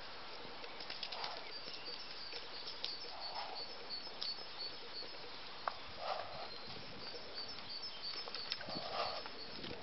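Small birds chirping in the background, with a soft breathy puff about every two to three seconds and a few sharp knocks.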